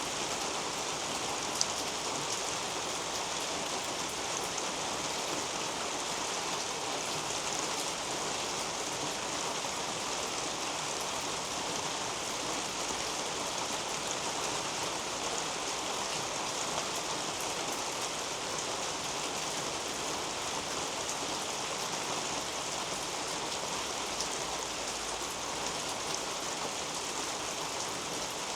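Steady rain falling on the leaves of a garden potato patch, an even hiss with scattered sharper drops, one louder tick about one and a half seconds in.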